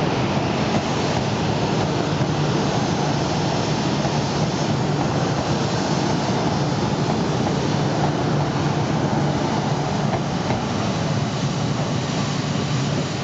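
E6 series Shinkansen train rolling past as it pulls out of the station: a steady rumble and rush of wheels on rail as the cars go by.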